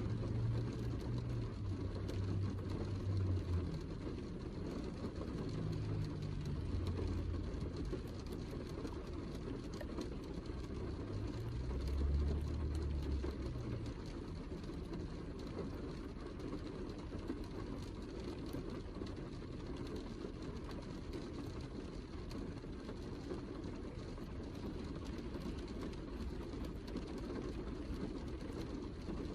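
Steady heavy rain, an even hiss, with low rumbling that swells now and then through roughly the first half.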